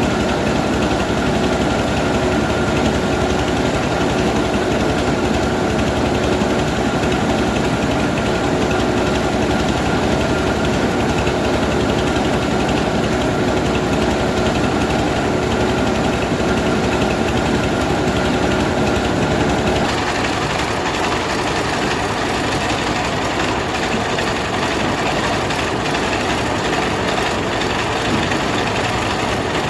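Rice milling machine running steadily while milling paddy, a continuous loud mechanical drone with a steady hum over it. About twenty seconds in the sound changes abruptly: the hum drops out and the noise becomes slightly quieter and rougher.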